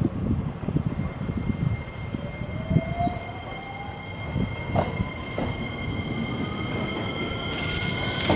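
Electric train accelerating through the station: a low rumble of wheels with scattered knocks over the rail joints, under a motor whine that rises steadily in pitch.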